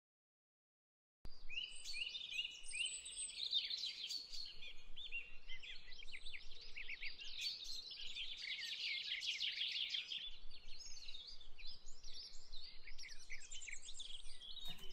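Silence for about a second, then a dense chorus of many birds chirping and calling in quick, overlapping phrases.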